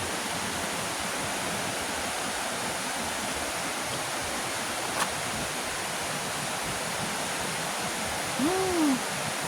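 Steady rushing of a waterfall. Near the end a short call rises and falls once in pitch, with a single faint click about five seconds in.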